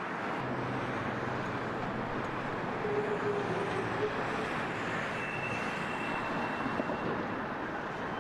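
Steady rumble of trains working in a rail yard, with a thin high squeal that comes in about five seconds in and fades out two seconds later.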